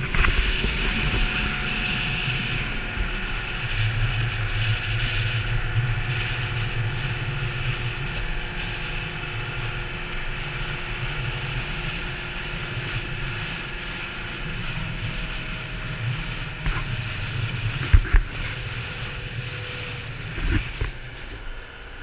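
Speedboat engine running steadily at speed, with rushing wind and water noise. A few sharp knocks come in the last few seconds.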